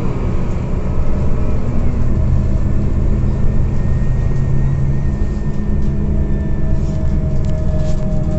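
Inside a Scania OmniCity CNG city bus under way: the gas engine and drivetrain run steadily. A thin whine joins about six seconds in, with light rattling clicks in the later part.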